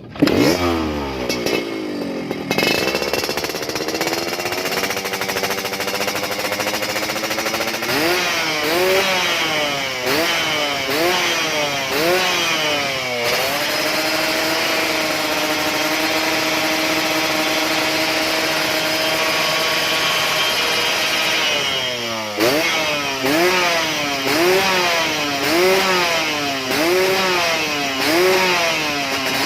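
Motorcycle engine through an aftermarket galvanised underbody racing exhaust, first running steadily, then revved in repeated blips about once a second. It is held at a steady high rev for about eight seconds, then drops and is blipped again, about once a second.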